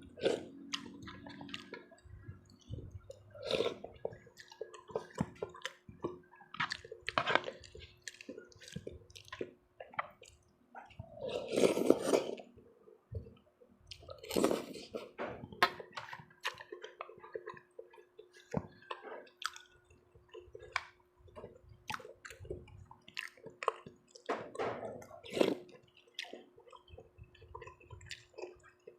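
Close-up eating sounds: wet chewing and smacking with scattered small clicks, and a couple of louder slurps or wet rustles about twelve and fourteen seconds in, over a faint steady hum.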